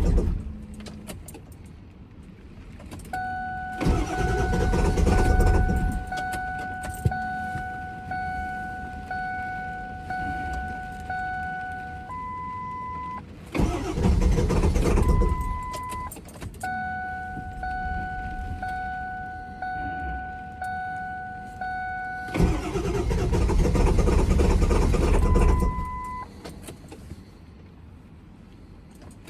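A converted ambulance's engine cranked by its starter in three tries of two to three seconds each, never catching: the vehicle is broken down and won't start. Between tries a dashboard warning chime pulses about once a second, with a short higher beep after each try.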